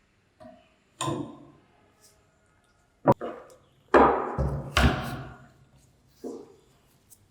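A run of knocks and clatters as parts of an old electric fan are handled and knocked during restoration work: about five hits, the two loudest near the middle about a second apart, each with a short ringing tail.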